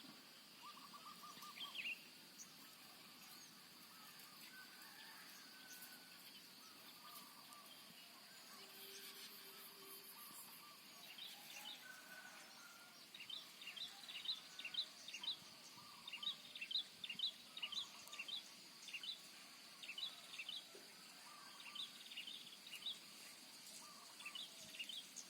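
Faint morning countryside ambience: birds calling and chirping over a steady high-pitched whine. From about halfway, one bird gives a long run of quick, sharp high chirps.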